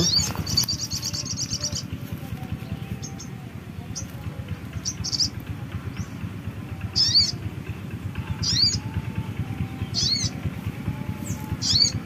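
Small birds calling: a quick high trill of repeated notes at the start, a few short chirps, then a sharp high call repeated about every second and a half. A low rustle of leaves and hands working in the branches runs underneath.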